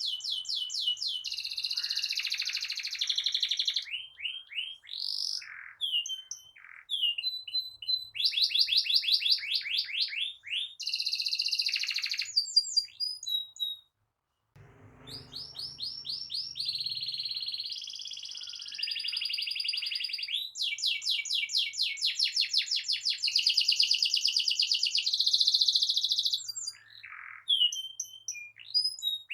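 Domestic canary singing a long rolling song: rapid trills of quickly repeated high notes, switching from one trilled phrase to the next. The song breaks off for a moment about halfway through, then goes on.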